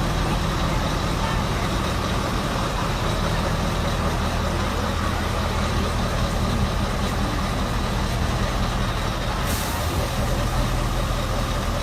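Scania truck's diesel engine running steadily at low revs. About nine and a half seconds in there is a brief hiss of released air, typical of the truck's air brakes.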